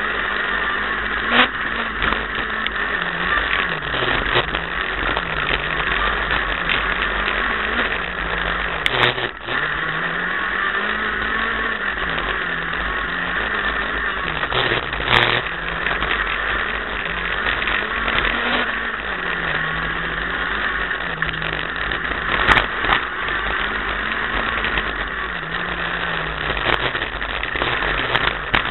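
Renault Clio Williams' 2.0-litre four-cylinder engine heard from inside the cabin while racing, its pitch rising and falling again and again as the driver accelerates and lifts. A few sharp knocks stand out along the way.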